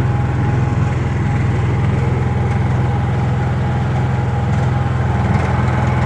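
Honda EU3000is inverter generator's single-cylinder engine running steadily, shortly after a cold start on a little choke.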